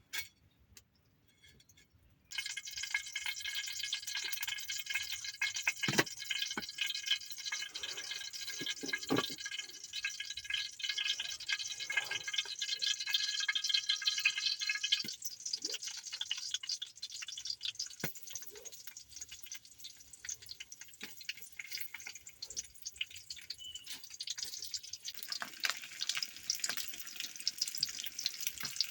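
Rain falling in the rainforest, with many small drips ticking. A steady high-pitched drone sits over it until about halfway through, then stops suddenly.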